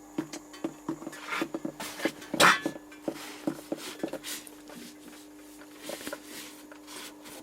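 Hand tools and metal parts being handled on a bench: scattered clicks and knocks, the loudest about two and a half seconds in, over a steady low hum.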